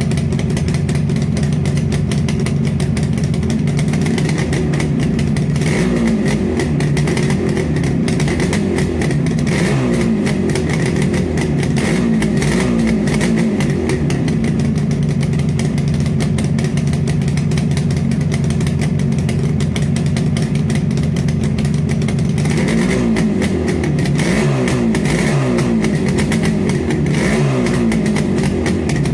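Motorcycle engine idling with a steady exhaust note, blipped on the throttle again and again so the pitch rises and falls in quick revs. The blipping comes in two spells, from about six to fourteen seconds in and again from about twenty-two seconds in.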